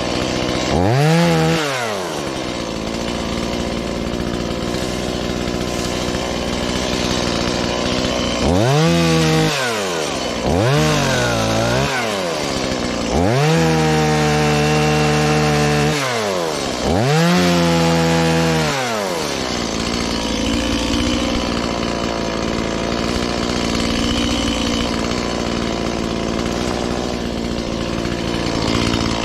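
Stihl MS180, a 31.8 cc two-stroke chainsaw, idling and revved up five times, the last two revs held for a couple of seconds as it cuts through limbs, each time dropping back to idle; it idles steadily through the last third.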